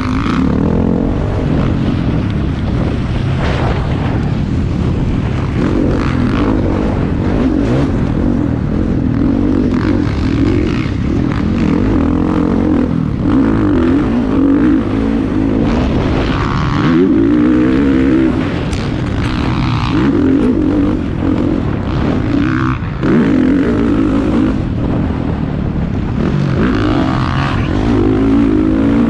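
Motocross bikes racing, their engines revving up and down continuously as they accelerate and shift.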